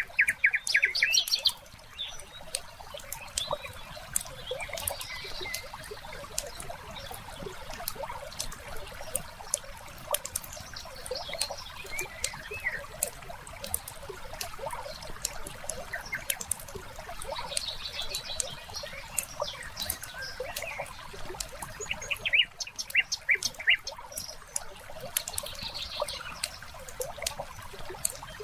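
Wood fire crackling in a fireplace, a steady stream of small sharp pops and snaps.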